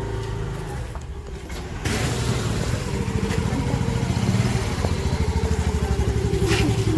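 Motor scooter running on the road, its engine a steady low hum, with a rush of wind noise on the microphone that rises sharply about two seconds in.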